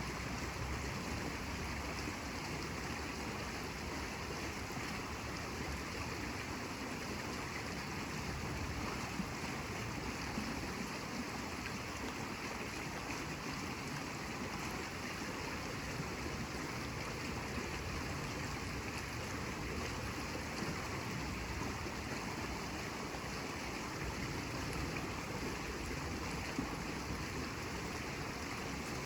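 Steady rushing of running water, an even, unbroken wash with no surges.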